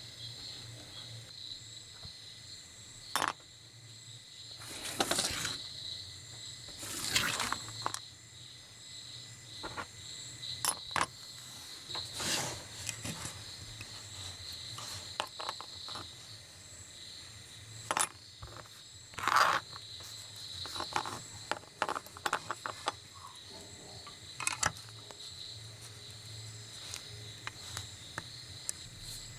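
Small metal parts being handled, with scattered sharp clinks and several short scraping rasps, over a steady high-pitched drone.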